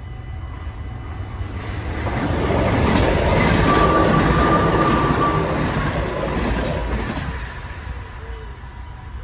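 NS ICMm electric intercity multiple unit passing over a level crossing, the rumble and clatter of its wheels on the rails building up, loudest for a couple of seconds in the middle, then fading away as it leaves.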